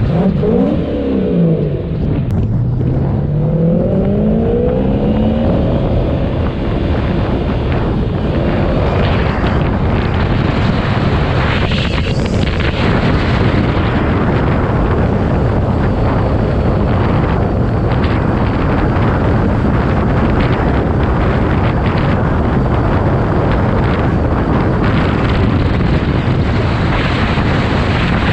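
Supercharged V8 drift car's engine revving, its pitch rising and falling several times in the first few seconds, then running hard and steady under a dense wash of engine and wind noise.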